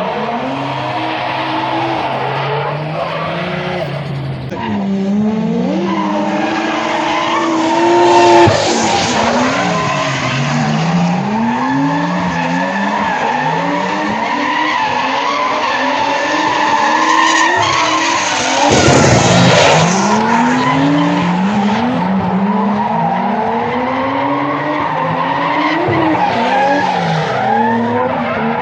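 Drift cars with engines revving up and down again and again and tyres squealing as they slide. There are two louder surges, about eight seconds in and again near the twenty-second mark.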